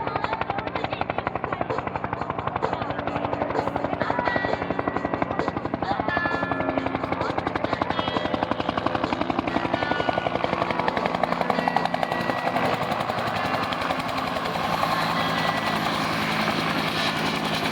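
Bell UH-1 Huey helicopter in flight, its two-blade main rotor beating in a rapid, even rhythm over a steady engine tone.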